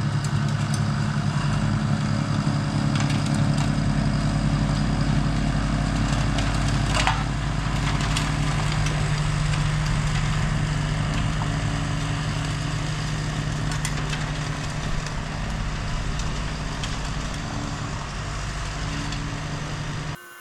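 Diesel tractor engine running steadily under load, with a tractor-mounted snowblower chewing through heavy wet snow.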